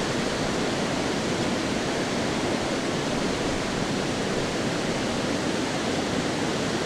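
Steady rushing of Foster Falls waterfall, an even wash of falling water that holds the same level throughout.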